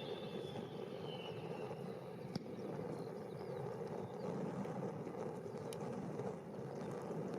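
Steady rumble of aircraft jet engines heard at a distance, with a faint high whine falling in pitch near the start.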